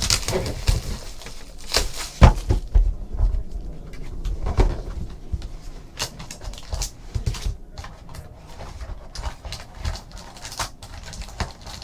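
Irregular rustling, clicking and tapping of a trading-card box and its packs being handled and opened on a table.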